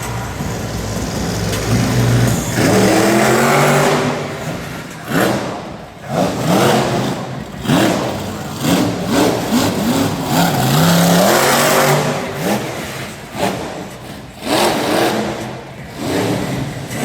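Monster truck engine revving hard in repeated bursts, its pitch climbing and dropping again and again as the throttle is worked.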